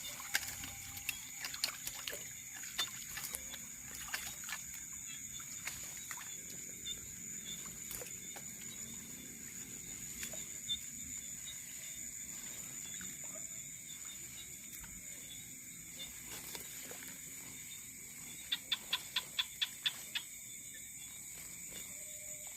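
Steady high-pitched drone of night insects, with scattered sharp clicks and a quick run of about eight clicks near the end.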